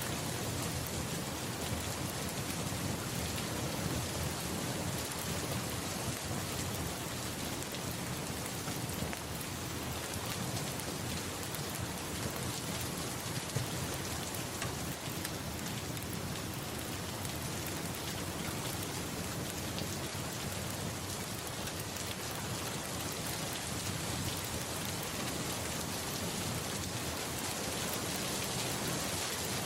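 Steady rain falling: an even hiss with the patter of drops on a surface.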